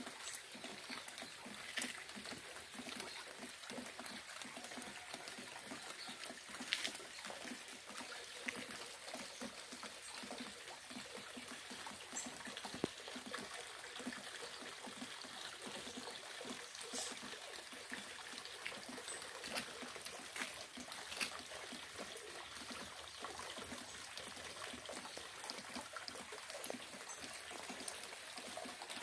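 Steady rainfall, a continuous patter with occasional louder single drops or drips standing out now and then.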